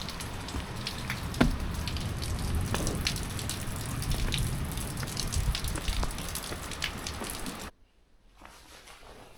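Rain falling, with many separate drops pattering and dripping close by over a steady rushing noise. It cuts off suddenly near the end to a much quieter background.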